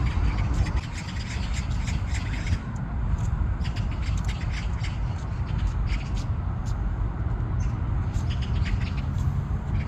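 A large flock of ducks giving many short, overlapping squawking calls at irregular intervals, over a steady low rumble.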